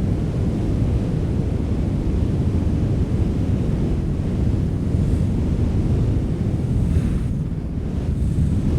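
Steady wind blowing, a constant low rumble with the hiss rising briefly a little past halfway and again near the end.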